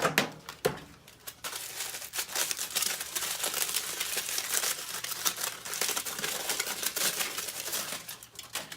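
Aluminium foil being crumpled and crinkled by hand: a continuous crackling rustle with many small sharp crackles.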